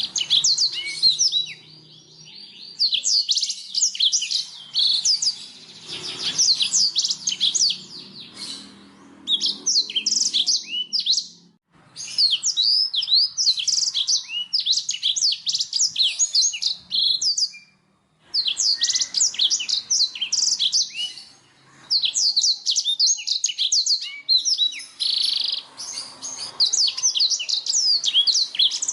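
Blackthroat (black-throated canary) singing: long runs of fast, high chirps and trills in phrases of several seconds, broken by short pauses.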